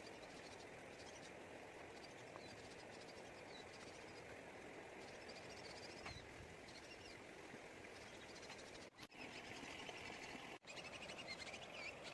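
Faint outdoor ambience with small high chirping calls from frogs or birds over a steady hiss. The chirps grow louder in the last few seconds, and the sound cuts out briefly twice.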